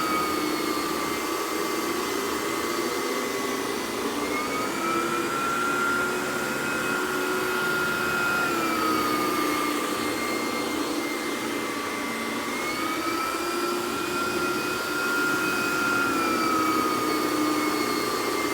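Miele canister vacuum running with a Vacuflo T21 turbo nozzle on carpet, giving a steady whine. The pitch dips and recovers every few seconds as the head is pushed and pulled and loaded by the pile.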